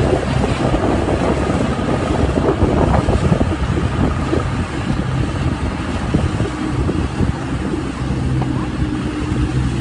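Thaleythong Storm medium-size rice combine harvester running steadily, a constant low engine hum under a rough mechanical rumble, with some wind on the microphone.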